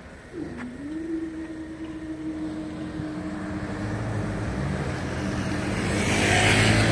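A vehicle passing close by, its engine hum and noise growing steadily louder as it approaches. A steady whine sounds through the first few seconds.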